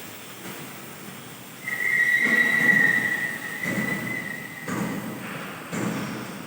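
Automatic plate-cutting machine working on metal plate: a loud, high, steady metallic squeal lasting about two seconds, then repeated noisy surges about once a second.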